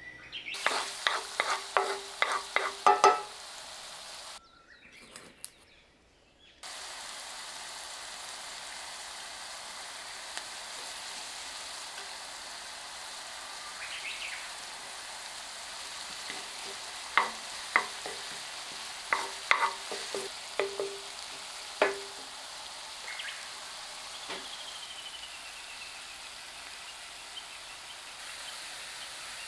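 Minced garlic, onion and dried chili flakes sizzling gently in olive oil in a frying pan, a steady hiss. Clusters of sharp ticks come in the first few seconds and again around the middle, and the sizzle drops out briefly about five seconds in.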